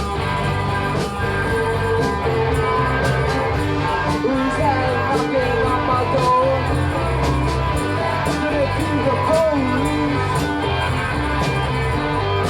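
Live rock band playing a loud, droning jam with electric guitars, bass, drums and organ. Drum hits land at a steady beat, and from about four seconds in a wavering, bending lead line rides over the top.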